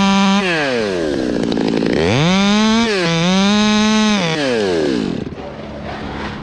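Stihl 200T top-handle two-stroke chainsaw revved to full throttle, dropping off sharply about half a second in, opening up again about two seconds in with a brief dip, then falling back toward idle near the end.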